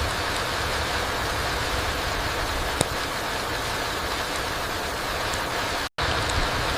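Steady rain falling on a forest floor, an even hiss with no change in level, broken by one sharp tick about three seconds in and a split-second dropout to silence near the end.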